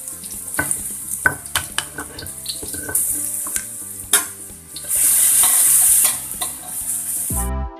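Ground garlic sizzling in hot oil in a metal wok, stirred with a utensil that clicks and scrapes against the pan. The sizzle swells and fades, and background music comes in near the end.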